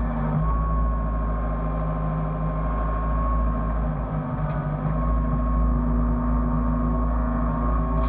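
Hyundai excavator's diesel engine running steadily with a high whine over a deep rumble. The lower tones waver briefly about four seconds in, then settle again.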